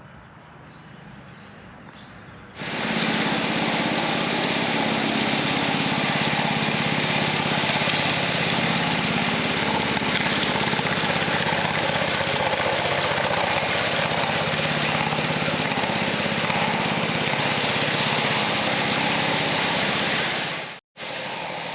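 Small gasoline engine of a walk-behind power trowel running steadily while the fresh concrete slab is being finished. It comes in abruptly about two and a half seconds in and breaks off sharply near the end.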